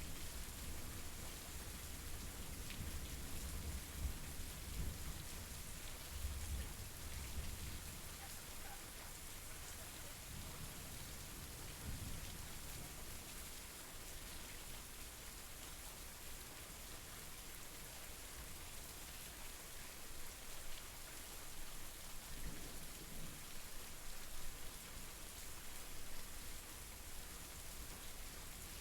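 Steady rain falling in an even hiss of drops, with occasional low rumbles swelling up under it in the first several seconds, again about midway and later on.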